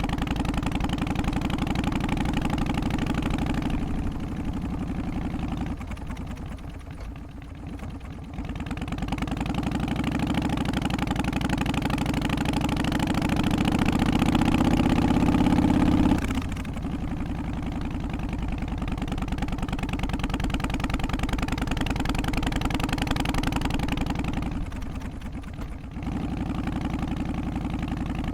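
Harley-Davidson Twin Cam 88 Softail V-twin engine running with its uneven loping beat. It dips in level twice, swells louder over several seconds around the middle, and then cuts back sharply.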